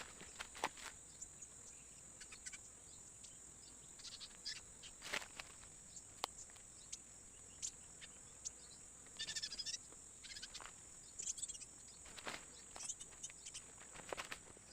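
Steady high-pitched drone of forest insects, with scattered short bird chirps and light clicks over it, including a quick run of chirps about nine seconds in.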